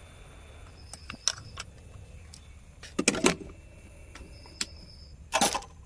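Several sharp clicks and clatters from small tools being handled and set down on a repair bench, the loudest about three seconds in and again near the end, over a low steady hum.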